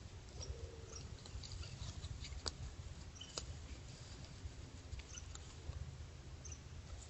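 Whitetail doe grazing close by: irregular crisp clicks and crackles of grass being torn off and chewed, two sharper snaps about two and a half and three and a half seconds in, over a low steady rumble.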